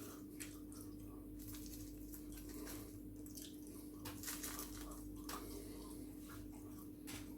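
Faint close-miked eating sounds: chewing, with many short wet clicks and smacks scattered throughout, over a steady low hum.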